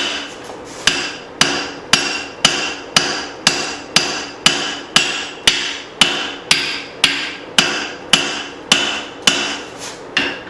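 Steady hand-hammer blows on hot steel on an anvil, about two a second, each with a short metallic ring, as the thick leaf-spring hatchet head is forged down. There is a brief pause just after the start and a quick double blow near the end.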